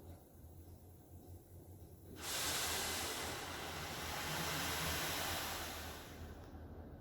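Coleman Hanna Water Wizard touchless car wash spraying water at the car: a hiss of spray starts suddenly about two seconds in, holds for a few seconds, then fades as the spray moves away.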